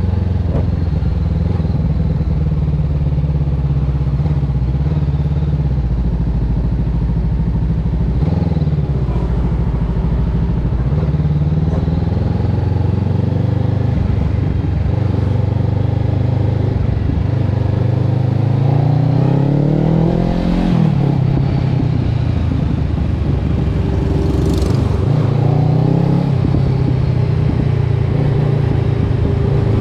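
Honda CB500X parallel-twin engine running through a Termignoni aftermarket exhaust, mostly at a steady low speed with a few short blips of the throttle. Around two-thirds of the way in it revs up in one long climb, then drops back.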